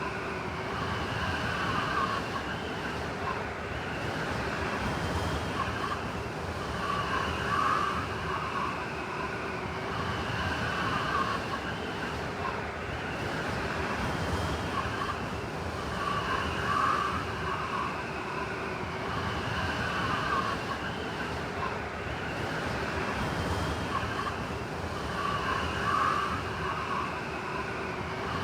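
Blizzard wind: a steady rushing howl with faint whistling tones that swell and fade in gusts every few seconds.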